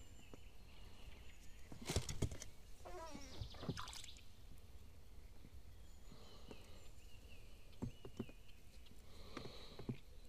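Faint bird calls, with a wavering call about three seconds in and thinner high calls later. A few sharp knocks come around two seconds in and again near eight seconds.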